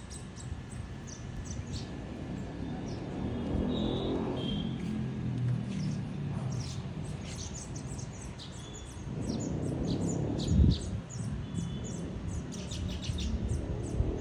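Many small birds chirping in quick, short calls throughout. A low rumble swells up twice, about four seconds in and again about nine seconds in, with a brief thump near the end of the second one.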